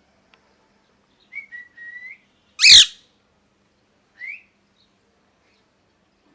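Ringneck parrot giving a few short whistled chirps, then one very loud, shrill screech nearly three seconds in, followed by a single short rising chirp.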